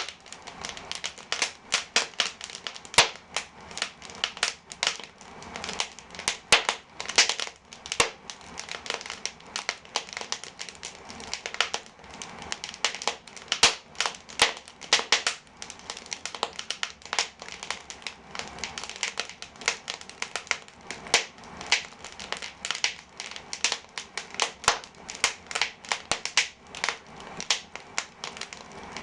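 Wood fire burning in an open brick fireplace: logs crackling and popping, with many sharp irregular snaps.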